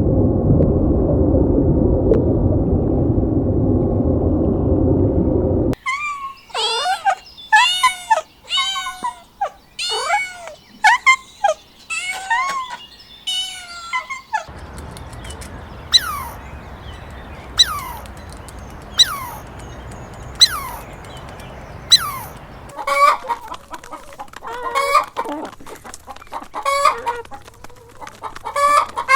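Chickens calling: a quick run of sharp squawks, then single falling calls about every second and a half, then clucking near the end. Before the chickens, for about the first six seconds, there is a loud, even low noise.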